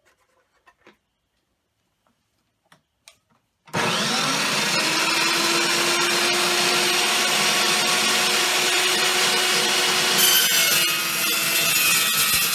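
Evolution EVO380 carbide-toothed cold-cut chop saw starting up about four seconds in and running steadily with a held motor whine as it cuts 2-inch steel angle iron. The sound turns brighter and harsher about ten seconds in.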